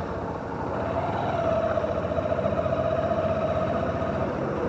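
Motorcycle riding on the road, heard through a helmet-mounted action camera, with steady road and wind noise. A steady, slightly wavering tone comes in about a second in and stops near the end.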